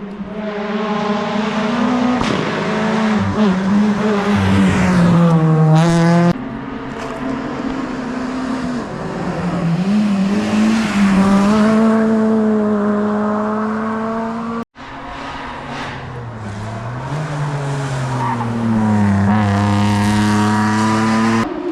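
Rally car engines at full throttle, pitch climbing and dropping with each gear change, in three separate passes joined by abrupt cuts.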